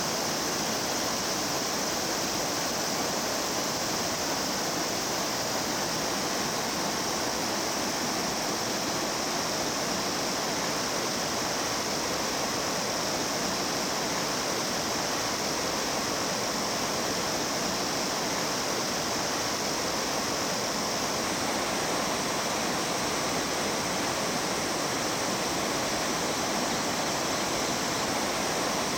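A mountain stream rushing steadily over rocks, a constant bright water noise.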